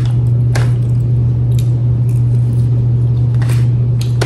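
Close-miked eating sounds: a few wet, squishy clicks of chewing and biting, heard over a steady low electrical hum.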